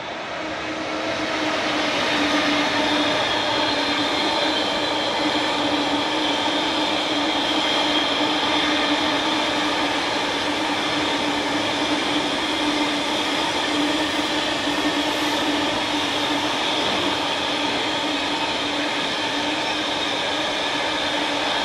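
A long train passing close by on the railway line: a steady rush of wheels on rails with a held whine, building over the first couple of seconds and then running on steadily.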